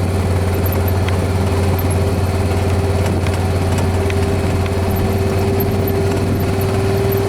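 A vehicle engine running steadily, a low even hum with a constant tone above it.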